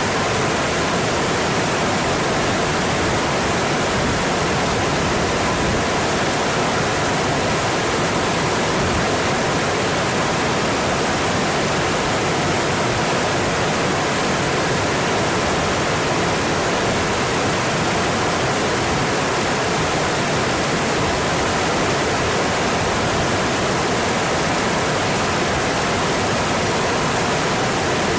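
Mountain stream rushing steadily over its rocky bed: a constant, even wash of water noise.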